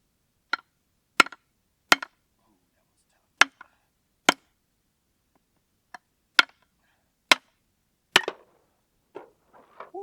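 Firewood being chopped and split: about eight sharp, separate chops, roughly a second apart, followed by a few lighter knocks near the end.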